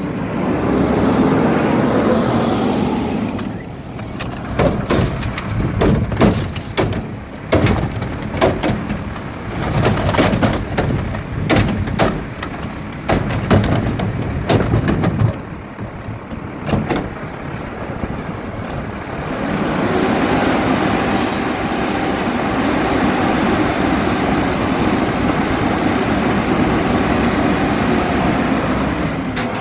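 Garbage truck collecting recycling: the engine revs up, then a long run of sharp knocks and clatters, then the engine revs steadily for about ten seconds before easing off near the end.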